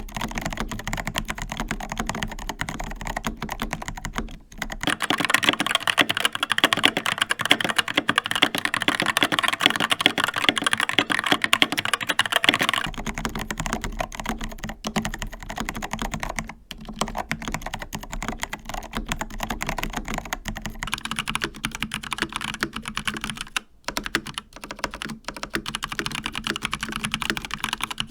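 Continuous fast typing on mechanical keyboards, switching boards twice. It starts on a Logitech POP Keys with TTC Brown switches. About five seconds in it moves to a Skyloong GK61 with Gateron Optical Brown switches, and the typing gets louder and sharper. About twenty-one seconds in it moves to an Asus ROG Flare II Animate with ROG NX Red switches.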